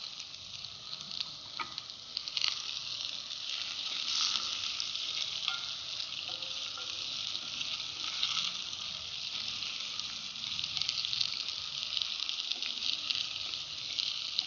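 Cut okra frying in oil in a pan over low heat, sizzling steadily with small scattered crackles.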